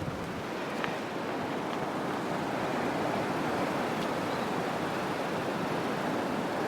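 Wind blowing steadily, an even rushing noise over the microphone, with a couple of faint ticks about a second in.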